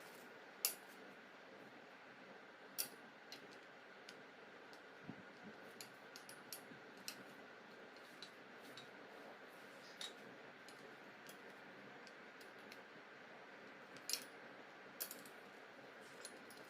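Scattered light clicks and taps from trampoline frame and mat parts being handled during assembly, the sharpest about a second in and twice near the end, over a faint steady hum.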